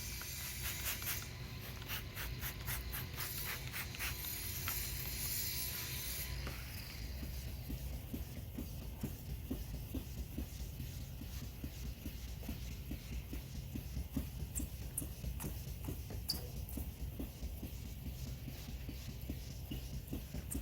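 Wet 1500-grit sandpaper rubbing back and forth on a plastic headlight lens: a quick, even rhythm of scratchy strokes that stops about six seconds in. After that only a low steady hum and a few faint ticks remain.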